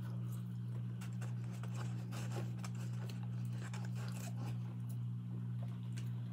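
Close-up mouth sounds of a person chewing White Castle French fries: soft, irregular clicks and smacks. A steady low hum runs underneath.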